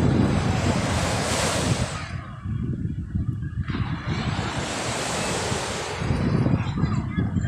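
Sea waves washing onto the shore, two surges rising and falling a few seconds apart, with a constant low rumble of wind on the microphone.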